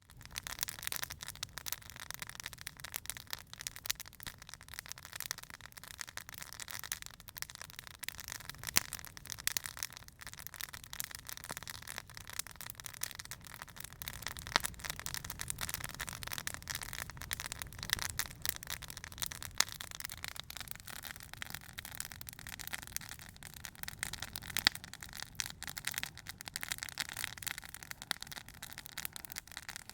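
Small campfire burning, the wood crackling with many sharp pops over a steady hiss.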